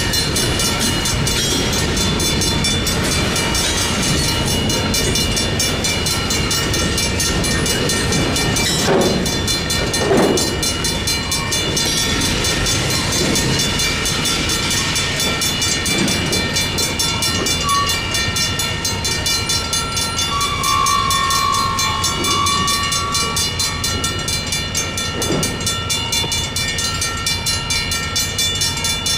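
Slow diesel freight switching train passing through a grade crossing: locomotive engine rumble and wheels on the rails, with a couple of sharp knocks about nine and ten seconds in, over the steady ringing of the crossing's electronic signal bell.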